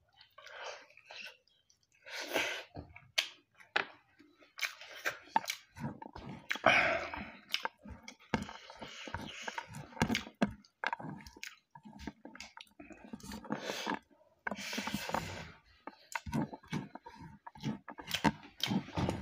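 Close-up mouth sounds of eating buffalo meat curry with rice by hand: wet chewing, smacking and some crunching, with the fingers working rice on the plate between mouthfuls.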